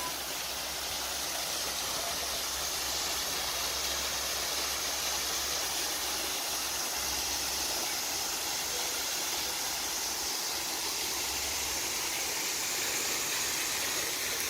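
Falling water of a waterfall, a steady rushing hiss.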